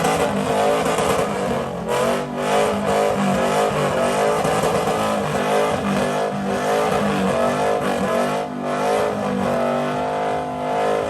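A car engine held at high revs, its pitch wavering up and down over and over, with a steady hiss of noise above it.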